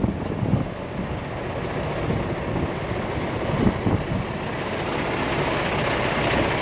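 Heavy vehicle running: a steady engine and road rumble with a few brief knocks, growing slowly louder toward the end.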